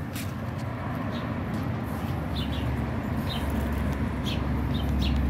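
Small birds chirping, short high notes at irregular intervals, over a low traffic rumble that grows louder toward the end.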